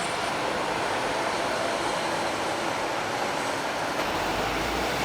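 Steady rushing noise of heavy trucks passing on the road, mostly tyre and engine noise.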